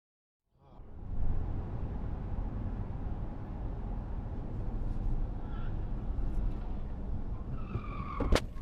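Car driving, heard from inside the cabin on a dash camera: a steady low rumble of engine and road noise. Near the end there is a brief tone and then a single sharp knock.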